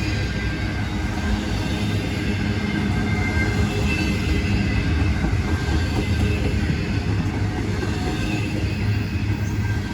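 Freight train rolling past: a steady rumble of railcar wheels on the rails, with faint high wheel squeals drifting in and out.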